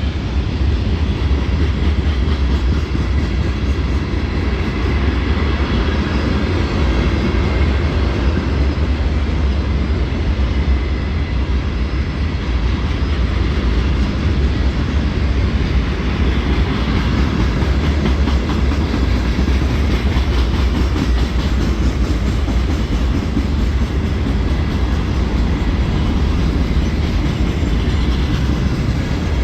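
Loaded rock cars of a CSX freight train rolling past, a steady, loud rumble of steel wheels on the rails that holds even throughout.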